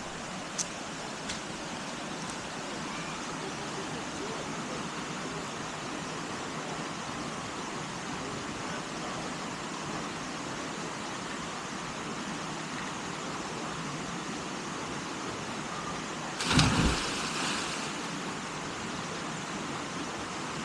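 Steady rushing of a waterfall and stream, with a brief loud burst of noise about three-quarters of the way through.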